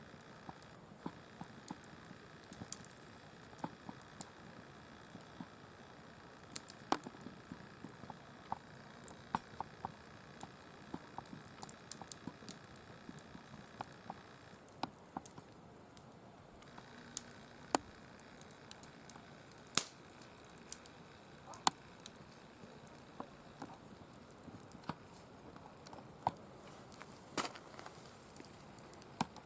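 Firewood burning in a mesh-cylinder fire pit, crackling with irregular sharp pops a few times a second over a low steady hiss.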